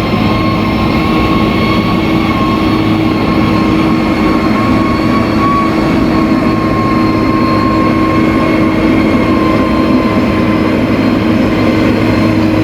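Bulldozer's diesel engine running steadily, with a high whine held over the engine note.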